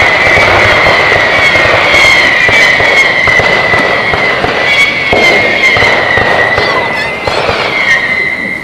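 Fireworks display: a steady, slightly wavering high whistle from whistling fireworks over dense crackling, with scattered sharp pops.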